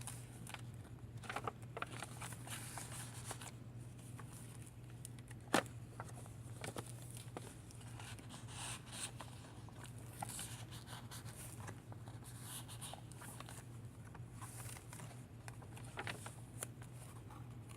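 Paper and card rustling and crinkling as the pages, tags and pockets of a handmade journal are handled and turned, with scattered small clicks and one sharp tap about five and a half seconds in, over a steady low hum.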